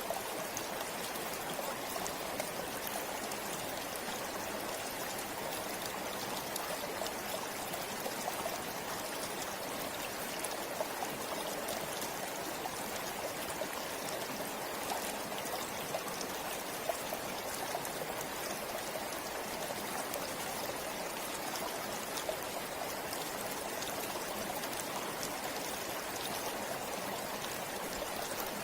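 A forest stream or small river flowing and babbling steadily, with many small splashes and drips in the rushing water.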